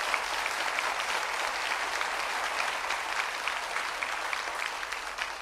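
Studio audience applauding steadily, fading near the end.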